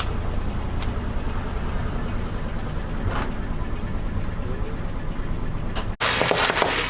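Car engine running steadily at low speed, a low rumble with a few faint crackles. About six seconds in, it cuts to a louder burst of crackling and crunching, like objects being crushed under a tyre.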